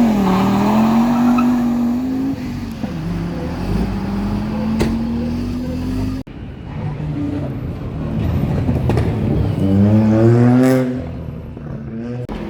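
Rally car engines at high revs. One engine's note rises and then holds steady for a few seconds before cutting off suddenly about halfway through. Then another car accelerates hard, its revs climbing to a peak near the end before dropping away.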